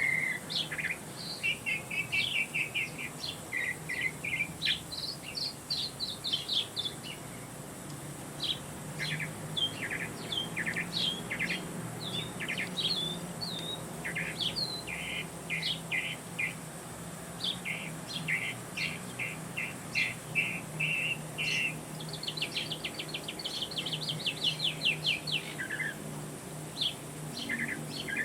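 Songbirds singing and calling: quick chirps, short trills and rapid runs of notes, one overlapping another. A faint steady low hum lies underneath.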